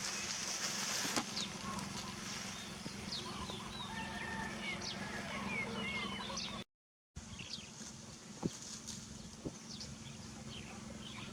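Outdoor animal calls: many short, high chirps and squeaks, scattered and overlapping, over a steady low hum. The sound cuts out completely for about half a second a little past the middle.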